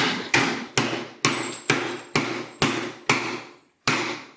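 Hammer blows on a small metal bracket being bent into shape for the throttle cable, about two blows a second with a short metallic ring after each, nine in all, stopping near the end.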